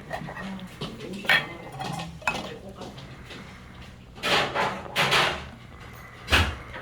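Kitchenware being handled: a couple of sharp clinks, then three louder clatters of dishes or pots, the last and loudest with a dull thump near the end.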